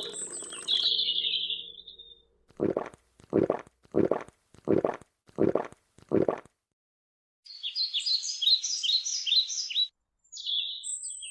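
Birds chirping and singing: a high chirp, then a run of six short calls in a row, then a burst of rapid high twittering and another chirp near the end.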